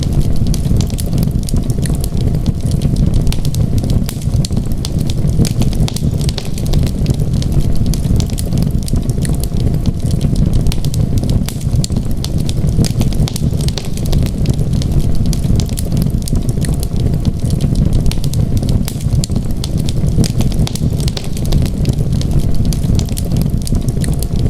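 Wood fire crackling in a fireplace, with frequent sharp crackles and pops over a steady low rumble.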